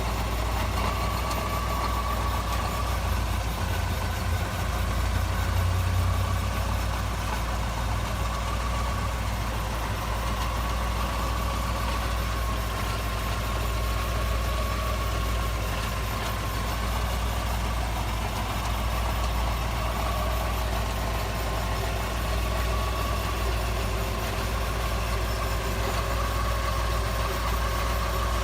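Car running with a steady low rumble and a thin whine that gently rises and falls in pitch throughout: the abnormal noise from the front-left wheel and suspension area.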